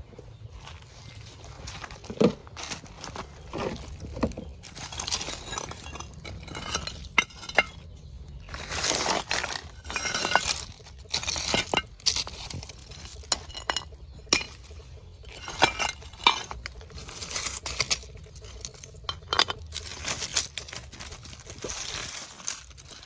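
Hard snail shells clicking and clinking against each other and the sides of a container, in scattered sharp knocks with bursts of rustling in between.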